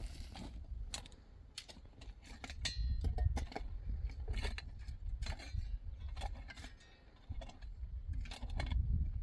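Irregular clicks and light knocks of hard objects, a dozen or more scattered unevenly, over a low rumble.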